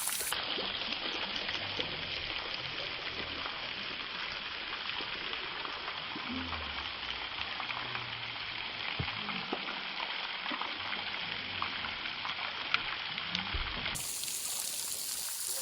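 Steady hiss of running water, with a few faint ticks and knocks.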